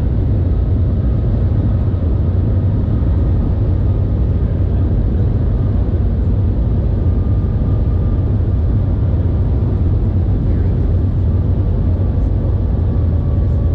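Steady low rumble of the Shanghai maglev train heard from inside the passenger cabin while it travels, with a faint steady high whine above it.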